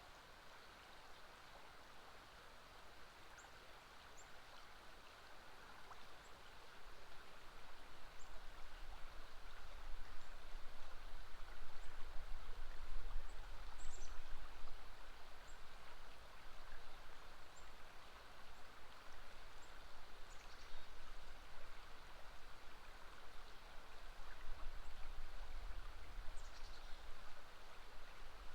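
River water running steadily, with faint, short, high bird chirps scattered through. A low rumble swells from about six seconds in and stays.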